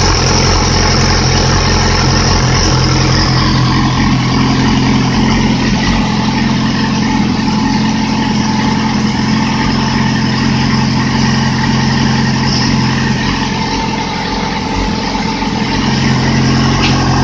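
2008 Yamaha R6's inline-four engine, run on its own out of the bike, idling steadily while it warms up after a cold start.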